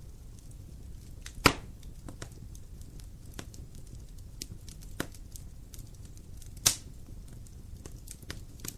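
Wood fire crackling over a low rumble of flames, with scattered small snaps and two loud sharp pops, one about a second and a half in and another later on, plus a smaller pop in between.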